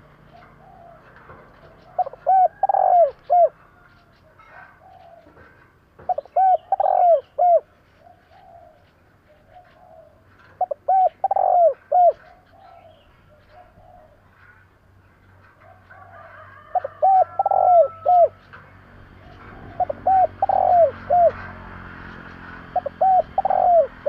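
Spotted dove cooing: six phrases of four or five low notes each, coming about every four seconds, with faint small-bird chirps behind. The calls are the kind used to stir up rival doves.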